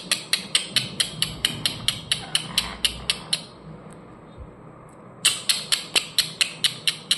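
Pet parrot tapping rapidly with its beak: a run of sharp, even taps about four or five a second, a pause of about two seconds, then a second run.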